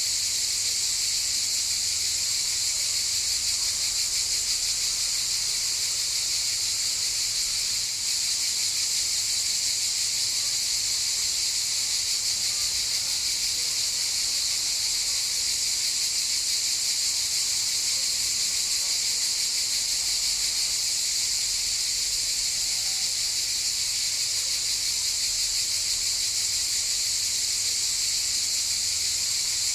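A chorus of cicadas buzzing in a continuous, high-pitched drone that holds steady without pause.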